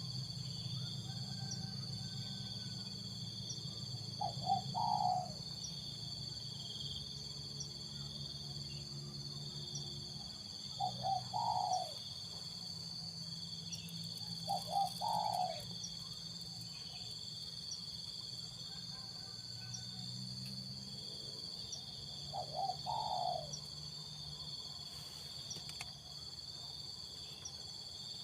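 Spotted dove cooing: four short phrases several seconds apart, over a steady high-pitched insect drone with a low hum beneath.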